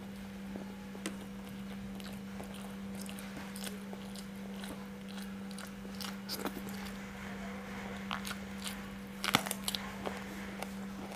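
Close-up chewing of a hand-fed mouthful of rice and spicy salted fish, with small wet mouth clicks and a few louder crunchy bites about nine seconds in. A steady low hum runs underneath.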